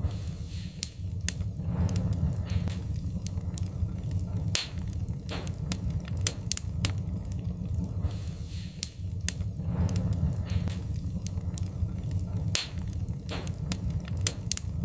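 Wood fire in a fireplace crackling, with frequent sharp pops at irregular intervals over a steady low rumble.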